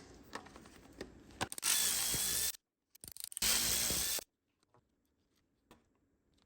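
Cordless power driver running E-Torx bolts in, in two bursts of about a second each with a short pause between, after a few clicks of tool handling. Faint clicks of parts being handled follow.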